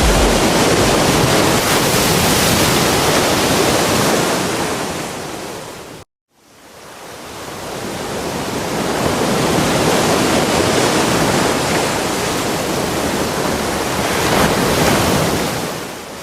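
Ocean surf: a steady rush of breaking waves. It cuts out abruptly about six seconds in and fades back up over the next couple of seconds.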